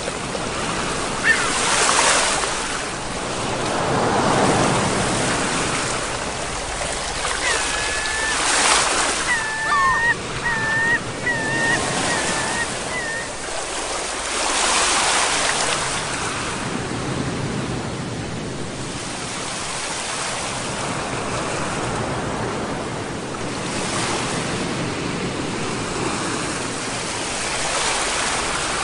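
Sea waves breaking and washing back, a steady rush that swells and ebbs every few seconds. About a third of the way in comes a brief run of short, high-pitched calls.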